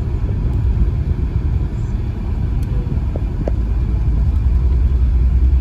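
Audi A6 driving on the road, heard from inside the cabin: a steady low rumble of engine and road noise, growing slightly louder near the end.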